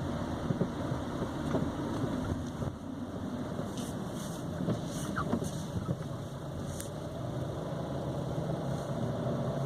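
Steady road and running noise of a moving Nissan Sentra (B17) with several sharp metallic knocks, most between about four and seven seconds in: the front right suspension's "iron noise" and knocking, a fault present since the car was new that dealer visits have not cured.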